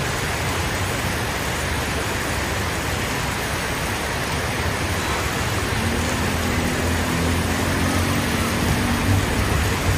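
Steady heavy rain with road traffic in the street. An engine hum comes in about six seconds in and fades near the end.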